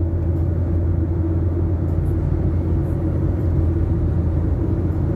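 A car driving at a steady pace: engine and road noise make a continuous low rumble.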